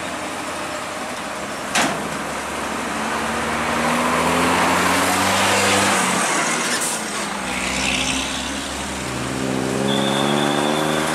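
Heavy diesel engine running and revving, its pitch rising twice as it works under load. A sharp knock about two seconds in, and a steady high beep near the end.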